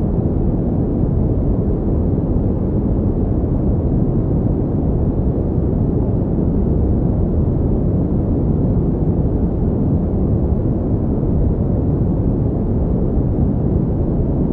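Steady pink noise: a constant, even hiss weighted toward the low end, with no change.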